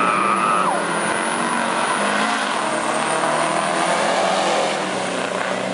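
Heavy diesel engines of racing trucks running loud and steady, with a dense mechanical noise.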